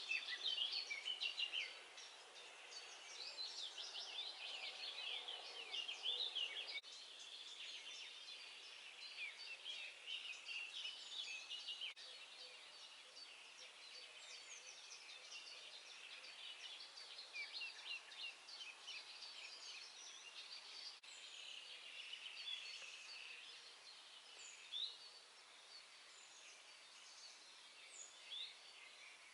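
Dawn chorus: many songbirds chirping, trilling and twittering at once, over a faint hiss. The loudness jumps abruptly about 2 and 7 seconds in.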